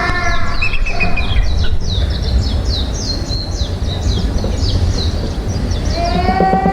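Rapid high-pitched bird-like chirping, many short falling chirps a second, over a steady low rumble.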